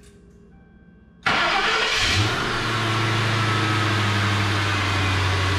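A 2003 Lincoln Town Car's 4.6-litre V8 started on a freshly installed starter: about a second in, the starter cranks briefly, the engine catches with a quick rev, then settles into a steady idle. Heard from inside the cabin.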